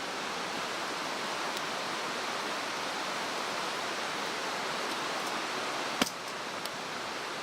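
Steady rushing of a mountain stream, with a single sharp crack about six seconds in.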